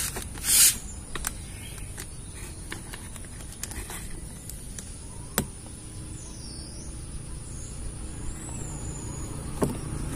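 Hyundai Ioniq hybrid running with a steady low rumble, its engine started to charge the 12-volt battery, under scattered light clicks and taps from work on the rear door trim. A short rushing noise comes about half a second in.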